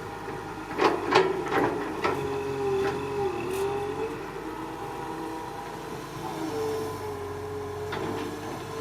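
Excavator engine and hydraulics running with a wavering whine that rises and falls, and a cluster of sharp clanks about a second in and again near the end.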